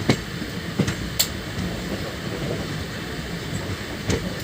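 Circar Express passenger train running on the rails: a steady rumble broken by a few sharp clicks and knocks, one at the very start, two about a second in, and another near the end.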